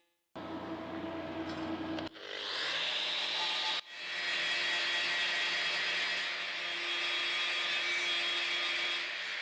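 Portable band saw running and cutting through stock, heard as several short clips joined together, each breaking off abruptly, about two and about four seconds in.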